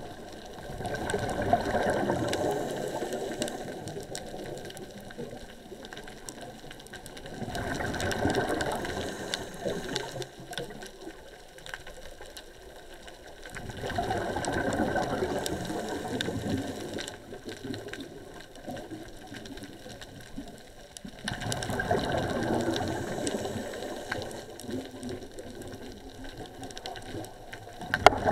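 Scuba regulator underwater: a diver's exhaled bubbles rush and crackle out about every seven seconds, with quieter breathing between.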